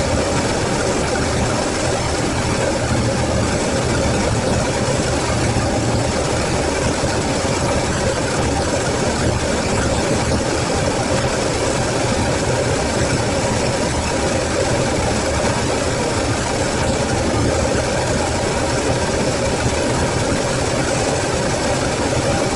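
Freshly rebuilt Toyota 4A-GE twin-cam inline-four, running on carburetors, idling steadily with no revving.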